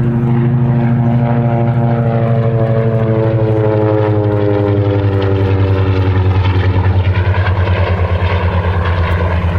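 Curtiss SB2C Helldiver's Wright Cyclone radial engine and propeller making a pass, loud and steady. The engine note falls in pitch over the first six seconds as the plane goes by, then settles into a rougher pulsing drone.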